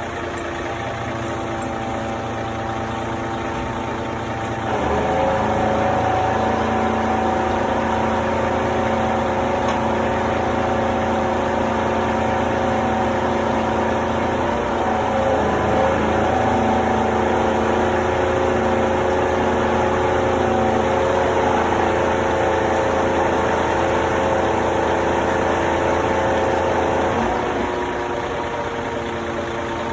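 Engine of heavy machinery running steadily. Its revs rise about five seconds in, hold under load, and settle back to a lower idle near the end.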